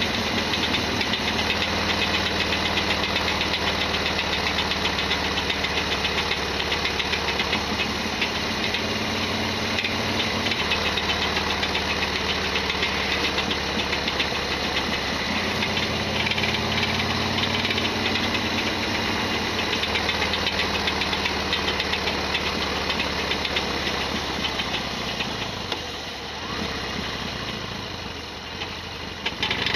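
Harley-Davidson Sportster XL1200R's V-twin engine running under way, with a loud rattling, knocking abnormal noise over its beat. The engine pitch shifts as it goes, and the sound eases off about 25 s in before picking up again near the end.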